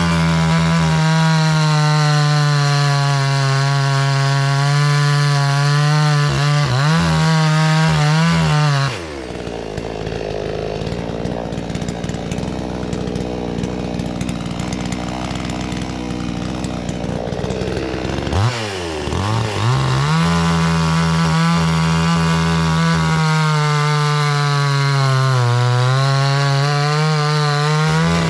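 Gas two-stroke chainsaw at high revs cutting wood, its pitch sagging now and then under load. About a third of the way in it drops to idle for roughly nine seconds, then is revved back up and cuts again.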